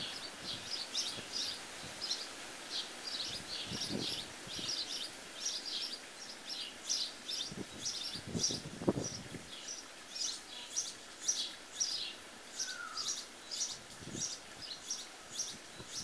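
Small birds chirping, short high-pitched chirps repeated rapidly, a few each second, with a few low thumps in between.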